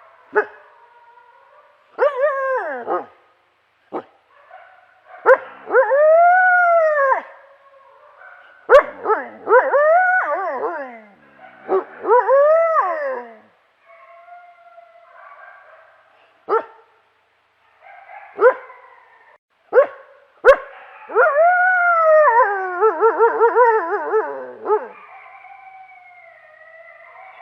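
Several canines howling and yipping, their drawn-out calls rising and falling in pitch and overlapping one another. The calls come in bursts separated by short pauses, and build near the end into a wavering chorus of yips and howls.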